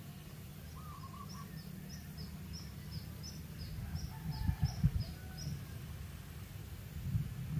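A bird calling a quick series of short high chirps, about three a second, for several seconds, with a brief lower call near the start. Under it runs a steady low rumble, with a few dull thumps about halfway through and again near the end.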